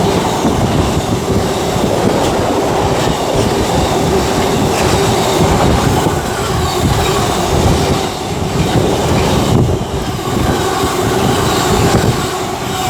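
A freight train hauled by a Freightliner Class 66 diesel locomotive passing at speed, its wagon wheels clattering steadily over the rail joints, with a steady ringing tone from the wheels on the rails.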